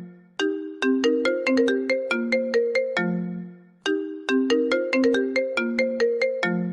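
A cute SMS message ringtone: a short melody of quick, bright notes that ends on a longer low note and fades out. It plays twice, starting again about every three and a half seconds.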